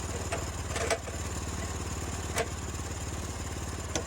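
Small gas engine of a Woodland Mills portable sawmill running steadily, with a few short sharp knocks over it.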